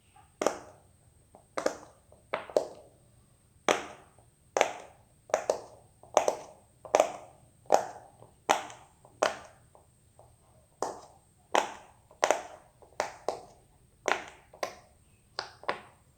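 Silicone pop-it fidget toy having its bubbles pressed through one by one: a string of about twenty soft pops, roughly one or two a second, with a short pause midway.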